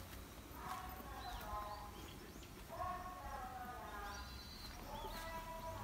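Birds calling in a bamboo grove: three drawn-out calls about a second long each, with short high chirps between them.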